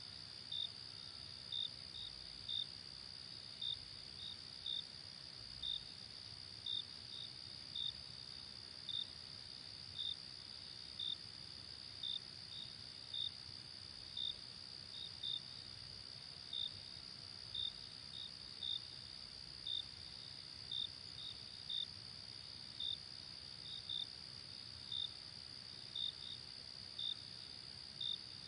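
Crickets at night: a steady high-pitched trill with one cricket's short chirps over it, about one to two a second at uneven spacing, above a faint hiss.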